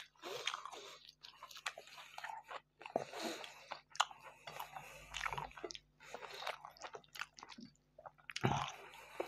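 Close-miked eating sounds: chewing a mouthful of fried meat and flatbread, with scattered wet smacks and soft clicks, along with flatbread being torn and food picked from the plate.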